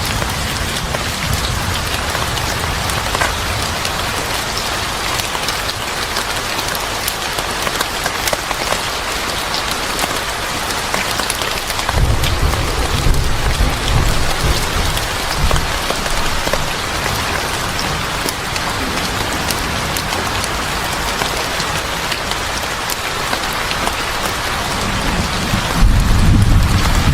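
Steady heavy rain falling on a surface. Low rumbles of thunder come in about twelve seconds in and again near the end.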